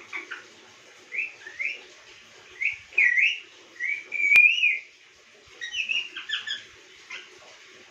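Pet parrot whistling: a string of short whistles that glide up and down, the longest and loudest a wavering whistle a little past the middle, followed by a quick burst of short chirps.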